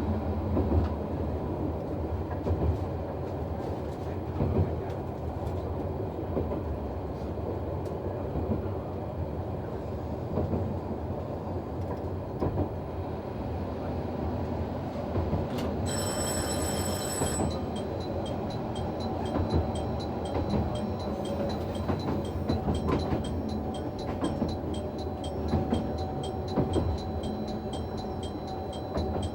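A Noto Railway NT100 diesel railcar runs with a steady engine and wheel rumble, heard from the driver's cab. About sixteen seconds in, a short, high ringing tone sounds for over a second. Then a bell rings evenly, about twice a second, to the end.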